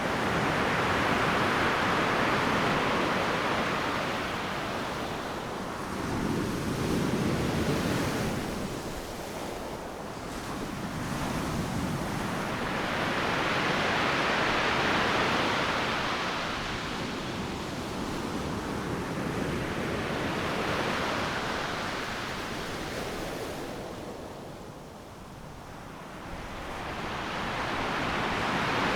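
Ocean surf: waves breaking on a beach and washing up the sand, a steady rushing noise that swells and fades every several seconds, with a lull about 25 seconds in before the next wave builds.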